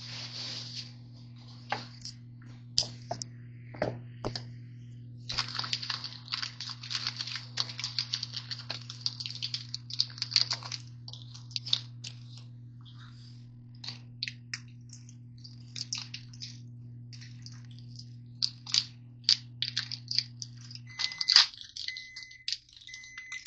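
Microwave oven running with a steady hum that stops about 21 seconds in, followed by short repeated end-of-cycle beeps. Throughout, crinkling and rustling of granola bar wrappers.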